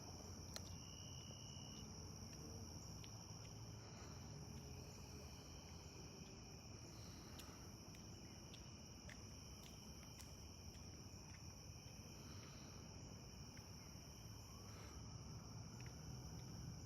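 Faint, steady chorus of crickets trilling, one continuous high-pitched drone, with a few faint clicks scattered through it.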